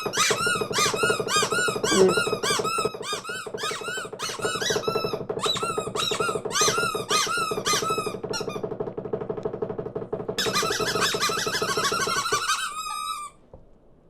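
Cartoon small birds squeaking and chirping in rapid overlapping bursts, several chirps a second, over a steady low hum. The chirping stops about eight seconds in, bursts out again briefly a couple of seconds later, and breaks off near the end.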